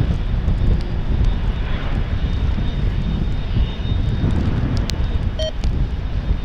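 Jet airliner engine noise: a dense low rumble with a faint steady high whine, mixed with wind buffeting the microphone.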